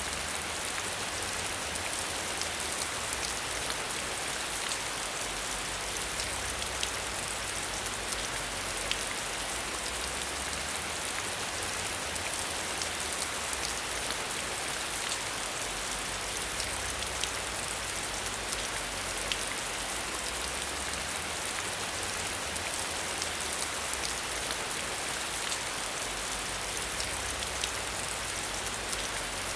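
Steady rain with many scattered drops ticking on a surface, an even hiss with no let-up.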